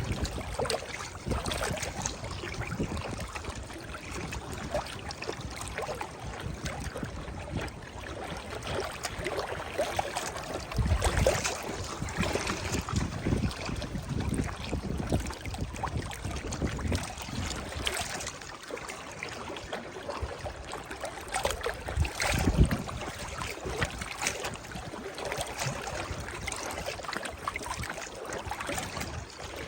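River waves splashing and lapping irregularly against the shore, with a few stronger, deeper surges.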